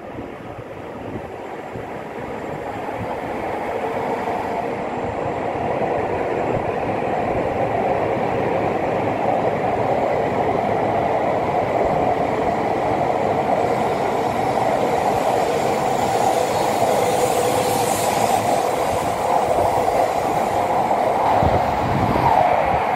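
E5 series Shinkansen train pulling out of the station and running past along the platform as it gathers speed. Its running noise grows over the first several seconds, then stays steady and loud, with a faint steady hum in it.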